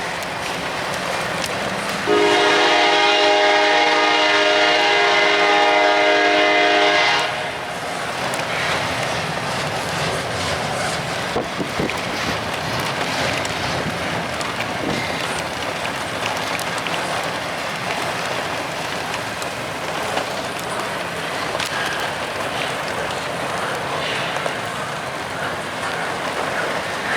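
Freight locomotive air horn sounding one long chord of about five seconds, starting about two seconds in. After it, the train's cars roll past with a steady rumble and wheel clatter in the rain.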